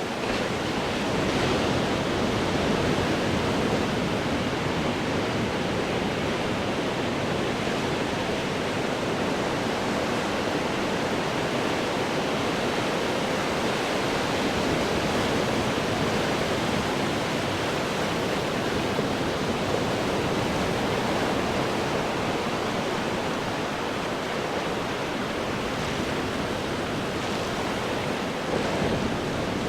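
Ocean surf breaking and washing over rocks: a continuous rushing roar of churning water that swells slightly about a second and a half in and again near the end.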